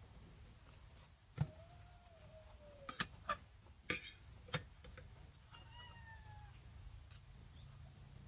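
Several sharp clinks of utensils against a bowl while eating soup, and an animal giving two drawn-out calls that slide slightly down in pitch.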